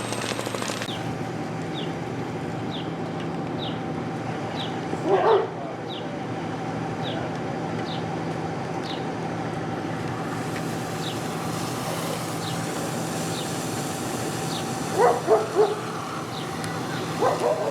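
A dog barking: once about five seconds in, then three quick barks and one more near the end. Under it runs a steady machine engine hum with faint, regular high chirps about once a second.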